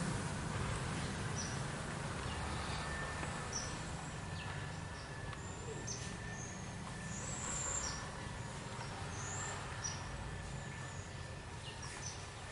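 Scattered short, high chirps of birds over a low steady hum, with a faint steady whine.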